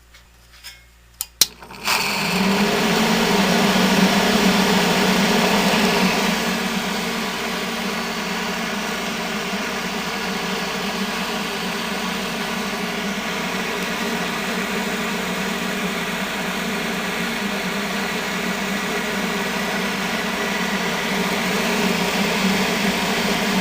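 1970 Triangle Mobile Home Products bathroom exhaust fan switched on with a few clicks, then starting up louder and rattling for the first few seconds before settling into a steady hum. The startup rattle comes from its worn, long-dry motor bearings.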